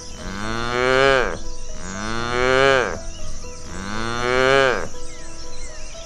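A cow mooing three times, each moo a long call of about a second that rises and then falls in pitch, with short pauses between them.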